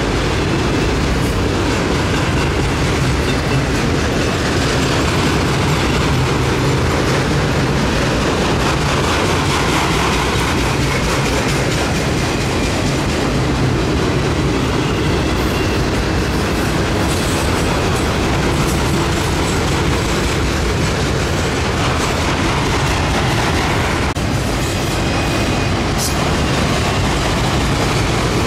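Freight train of autorack cars rolling past close by: a steady rumble of steel wheels on rail with clickety-clack over the rail joints. Faint wheel squeals come in during the second half.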